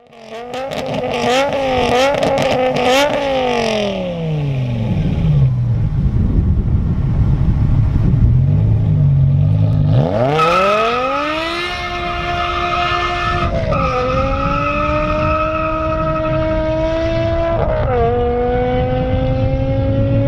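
BMW M5 E60's V10 engine blipped quickly several times, the revs then falling away. About halfway through it accelerates hard, revs climbing, with two brief drops in pitch at the upshifts.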